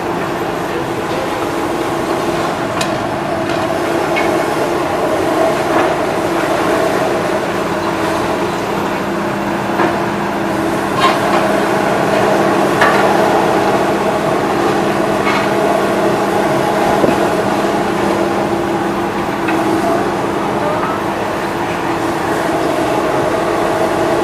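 A heavy engine running steadily at a constant pitch, with scattered sharp knocks and clanks over it.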